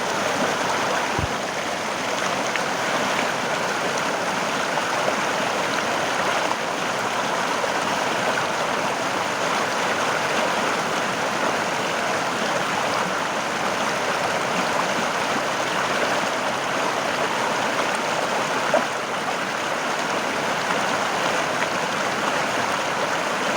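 River water flowing and gurgling over rocks, a steady rushing sound.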